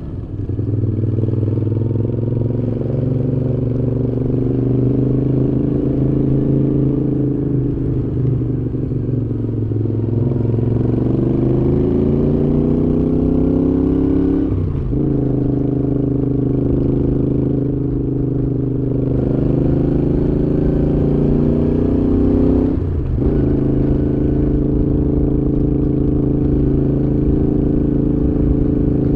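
Moto Guzzi V7's transverse V-twin running through a Mistral aftermarket exhaust while riding. The engine note sags, then climbs under acceleration and drops sharply twice, about halfway through and again a few seconds before the end, as with gear changes.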